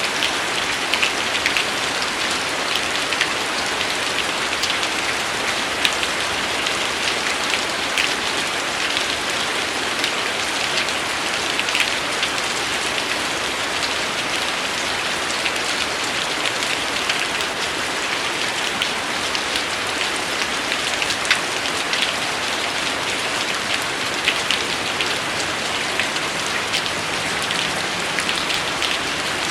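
Steady rain: an even hiss with many sharp single drops spattering on a surface.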